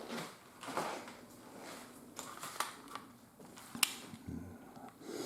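Light handling noises on a workbench: scattered soft rustles and small taps as parts and tools are picked up and set down, with one sharp click almost four seconds in.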